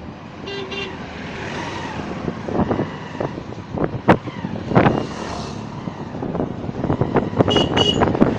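Motor vehicle on the road with sharp knocks and rattles over bumps. A short horn toot sounds about half a second in, and two more near the end.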